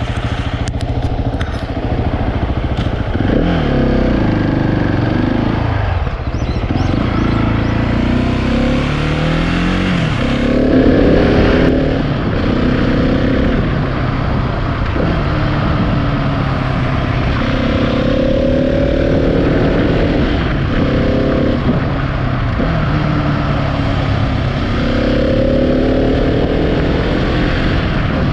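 Husqvarna 701 Supermoto's single-cylinder engine running on the move, its pitch climbing under acceleration and dropping back at each gear change, several times over.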